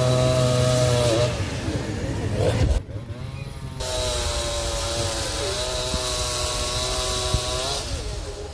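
Chainsaw running at high speed, its pitch dipping about a second in and again near the end, with a brief lull around three seconds in.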